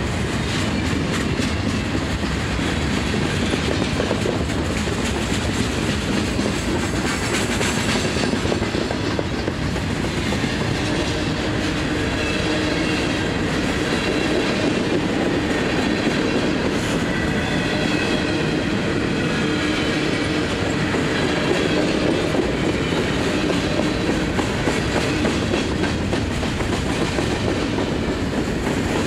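Freight train cars rolling past, autoracks and then covered hoppers: a steady rumble of steel wheels on rail with clickety-clack over the rail joints.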